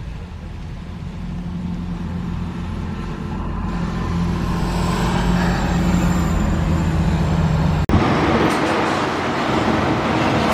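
A heavy truck's engine running with a low, steady hum that grows louder over several seconds as it draws nearer. About eight seconds in the sound breaks off sharply and gives way to louder, hissier road and traffic noise.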